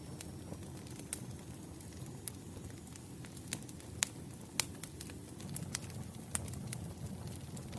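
Wood campfire burning with a steady low rumble and scattered sharp crackles and pops, two of them louder about four and four and a half seconds in.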